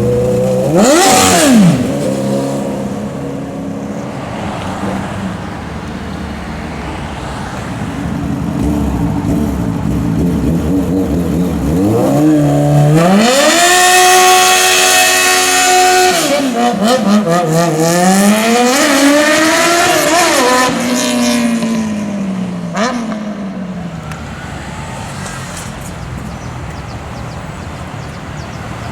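Sport motorcycle engine revving hard: a quick blip about a second in, then a long climb to a high note held steady for about three seconds, falling away with several smaller revs, and running at a lower pitch in between.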